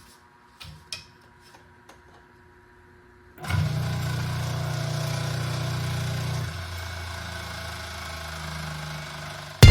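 A few faint clicks, then the 1/4 hp electric motor of a Vespa air compressor is switched on about three seconds in and runs with a steady hum. It gets a little quieter about halfway through.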